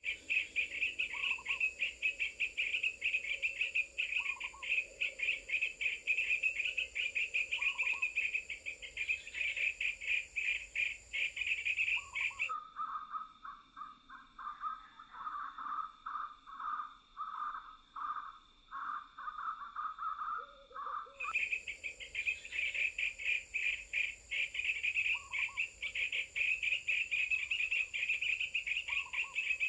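Bird-lure calls: a fast, continuous, high insect-like chirring trill with a short lower chirp every three seconds or so. About twelve seconds in it switches abruptly to a duller, lower call pulsing about twice a second, and the high trill comes back about nine seconds later.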